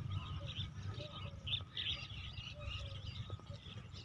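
Several small birds chirping and twittering in quick short calls, with a few lower repeated notes among them, over a steady low rumble.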